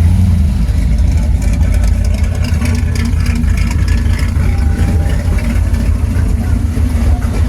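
Car engine running close by with a deep, steady rumble.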